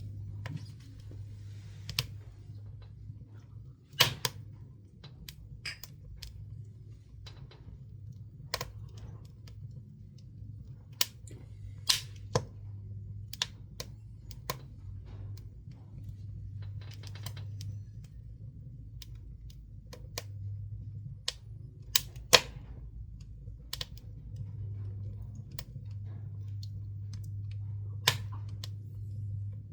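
Pine scrap wood burning in a wood stove, crackling with irregular sharp pops, several of them loud. A steady low hum runs beneath.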